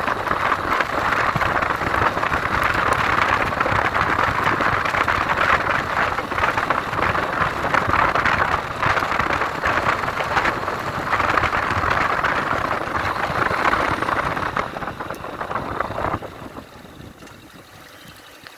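Steady rushing wind and rain noise on the microphone of a motorcycle riding through the rain, with the engine underneath. The noise drops sharply about two seconds before the end.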